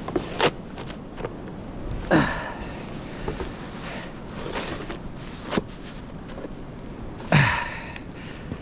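Snow shovelling: scattered short scrapes and knocks, with a man's effortful grunt falling in pitch about two seconds in and again near the end.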